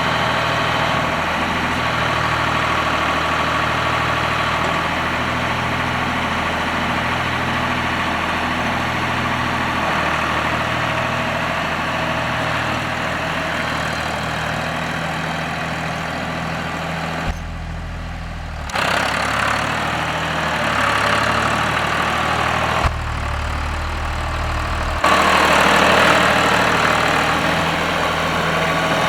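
John Deere 1530 tractor's diesel engine idling steadily with an even low pulse. Twice the sound briefly turns dull and boomy, and it grows a little louder near the end.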